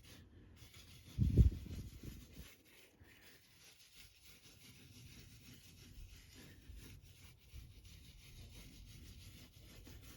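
Document-cleaner eraser crumbs being rubbed by hand across a comic book's paper cover: a faint, steady scrubbing. A dull thump about a second in is the loudest sound.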